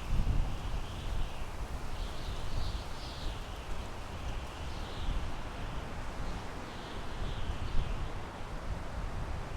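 Wind blowing through pine trees, a steady rushing hiss in gusts, with a low wind rumble on the microphone. Faint high chirping calls come and go a few times.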